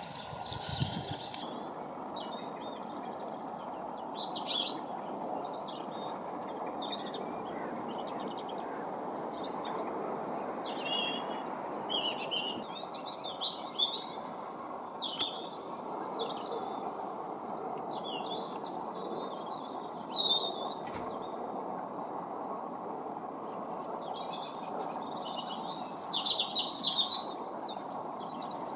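Many small songbirds chirping and twittering in quick, overlapping calls, with a louder flurry of chirps near the end, over a steady low rushing background noise.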